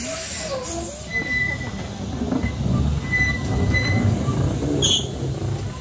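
Narrow-gauge train running on the rails, a low rumble that builds in the middle, with a thin high wheel squeal that comes and goes three times. There is a sharp click near the end.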